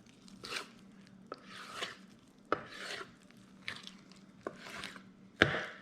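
Raw venison muscle groups being pulled and cut apart by hand and knife: a series of short, separate rubbing and tearing sounds, with a louder knock near the end.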